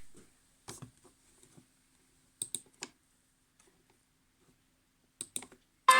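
A few faint, sharp clicks in small clusters of two or three, spread over several seconds. Electronic pop music starts abruptly at the very end.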